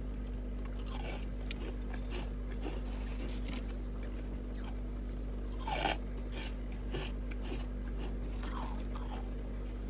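Someone biting and chewing chest-freezer frost: irregular crisp crunches, the loudest a little before six seconds in, over a steady low hum.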